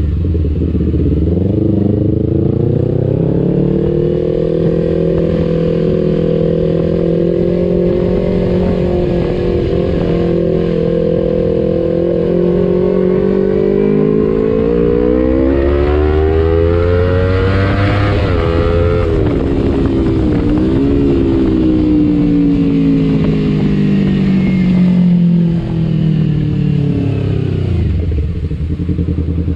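Kawasaki Ninja 250FI parallel-twin on an aftermarket R9 H2 exhaust, heard while riding. The revs hold fairly steady, climb to a peak a little over halfway through, then ease off and fall away near the end.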